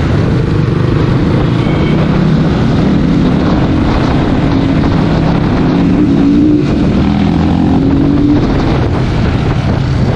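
Dirt bike engine running under way, its pitch rising and falling with the throttle, with wind noise on the microphone.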